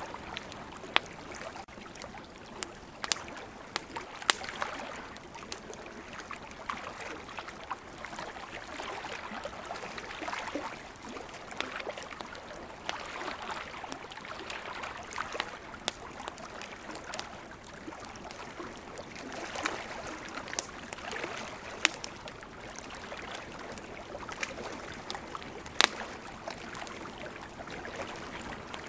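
Wood campfire crackling, with scattered sharp pops and a few louder snaps, over a steady wash of ocean waves that swells and fades every few seconds.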